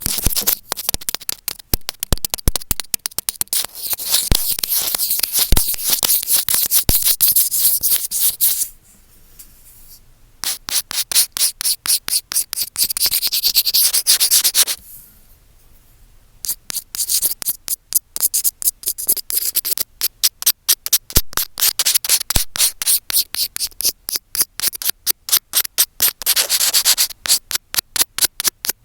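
Earphone microphones rubbed and scratched vigorously right against the mic: loud, rapid, rhythmic scratchy strokes. They break off twice for about a second, about nine and about fifteen seconds in.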